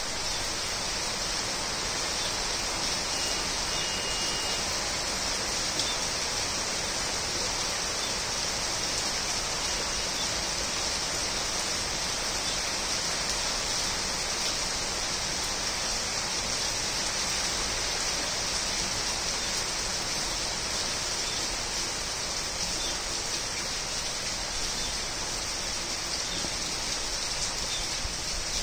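Steady rain falling on leafy trees and shrubs: an even, unbroken hiss of drops on leaves.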